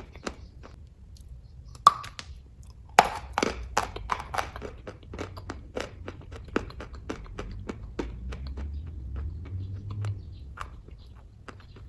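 Close-up chewing of kaju katli (cashew fudge): a quick run of short mouth clicks and smacks, several a second, with a few sharper ones about two and three seconds in.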